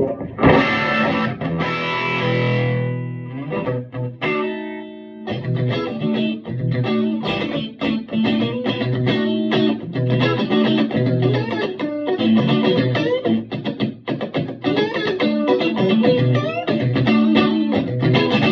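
Electric guitar played through a Vintage Sound Amp tube amplifier, with its tweed and plexi channels combined and lightly broken up. A chord rings out first, then a busy riff of picked notes and chords.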